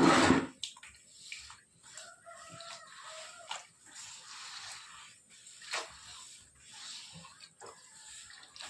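A short, loud rush of water at the start, then scattered knocks and clatter, with a faint wavering animal call, fowl-like, about two to three and a half seconds in.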